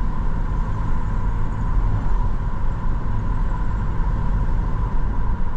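Steady road noise and engine rumble heard from inside a moving car, a low, even drone with no changes.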